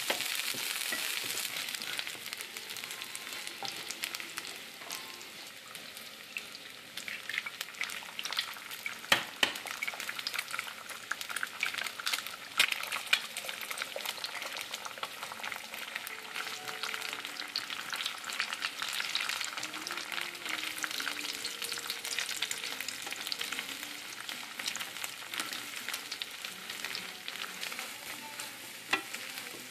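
Meat, garlic and dried shrimps sizzling in oil in a nonstick frying pan, stirred and scraped with a slotted wooden spatula; an egg is added and scrambled in with the rest. A few sharp knocks stand out about nine to thirteen seconds in.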